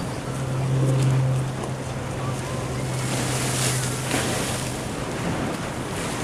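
Waves washing against a sea wall, with wind on the microphone. A steady low motor hum runs under it, loudest about a second in, and fades out about five seconds in.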